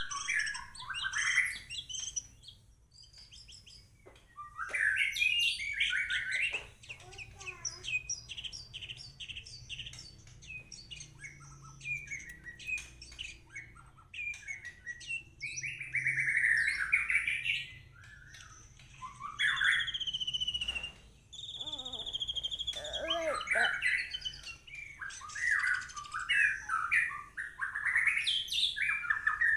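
White-rumped shama singing in full, vigorous song: a long, varied run of loud whistles, trills and rapid chattering phrases, with short pauses between bursts.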